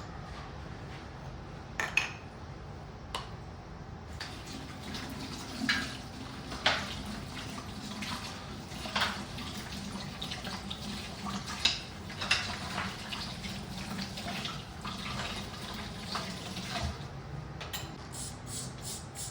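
Tap water running into a kitchen sink while dishes are handled under it, with sharp clinks of crockery against one another or the sink. A couple of clinks come before the water starts, and the water stops near the end.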